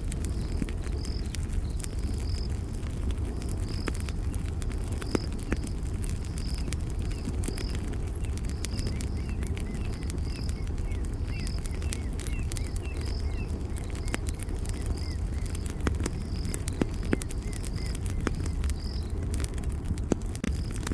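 Campfire crackling with sharp irregular pops over a steady low rumble of burning wood, while a high chirp repeats about twice a second from a night creature and faint smaller chirps come in toward the middle.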